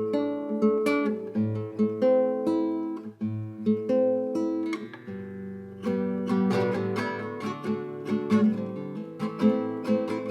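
Acoustic guitar being plucked and strummed: the instrumental introduction to a song, with a run of quicker strums in the second half.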